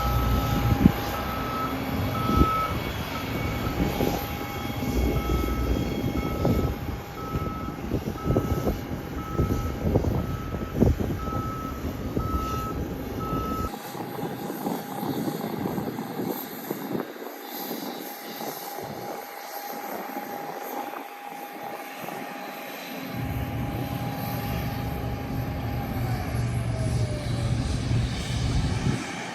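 Airliner engine noise at an airport: a low rumble under a steady whine that falls in pitch near the end. Through the first half an electronic beep repeats about every second and a half.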